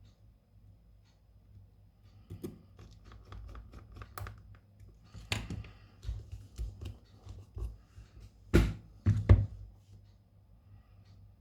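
Hand-handling noises from phone-repair tools and parts on a workbench: irregular small clicks, taps and light knocks, with two louder knocks just under a second apart late on.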